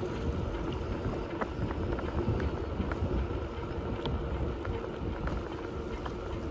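Wind buffeting the microphone on a moving bicycle, over a steady rolling hum with scattered light ticks.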